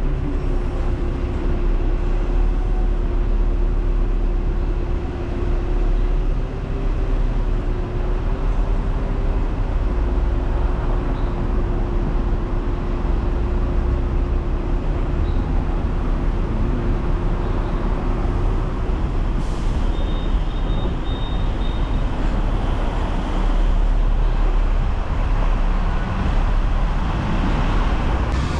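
Hong Kong double-decker electric tram running, heard from on board: a steady low rumble with a hum that stops about two-thirds of the way through, followed by a few short high beeps.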